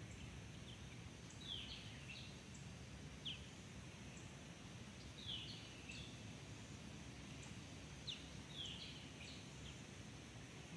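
Faint birdsong: short, quick chirps repeated every second or two, over a quiet steady outdoor background.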